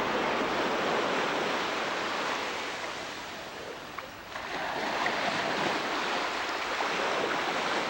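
Sea water and wind rushing steadily, easing off about three seconds in and swelling again just after four seconds.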